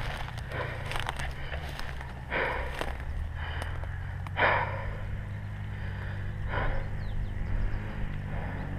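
Off-road motorcycle engine running steadily at low revs, with short bursts of rushing noise every second or two.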